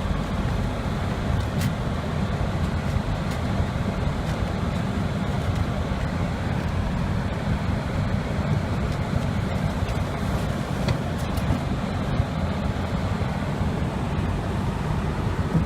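Car driving on a snowy road: the steady low rumble of engine and tyres.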